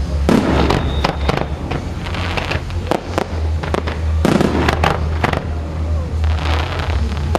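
Fireworks display: aerial shells banging in quick, irregular succession, with bursts of crackling, over a steady low hum.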